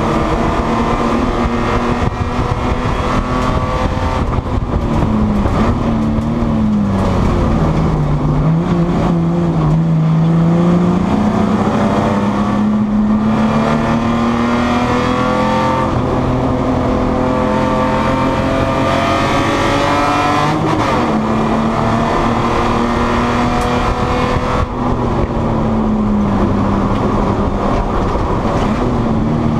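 Spec E30 BMW race car's straight-six engine heard from inside the cabin, running at high revs under racing load. The pitch drops as the driver lifts and brakes for a corner around a quarter of the way in, then climbs steadily under acceleration, with shorter dips near two-thirds of the way and again toward the end.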